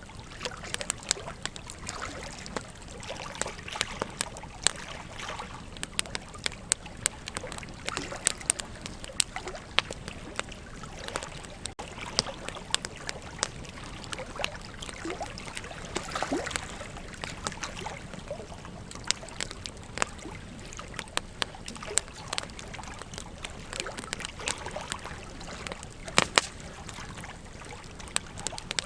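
Wood campfire crackling, with frequent sharp pops and snaps, one louder pop near the end, over a steady rush of flowing river water.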